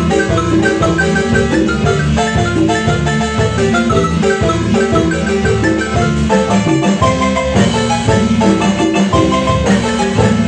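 Marimba music: quick runs of mallet-struck notes over a steady lower part, played continuously at a lively pace.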